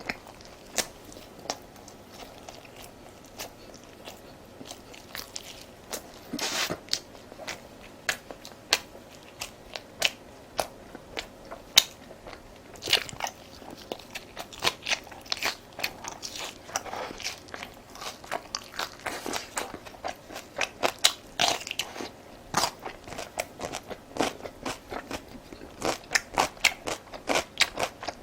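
Close-miked eating: biting and chewing crunchy food, with many sharp, irregular crunches that come thicker in the second half.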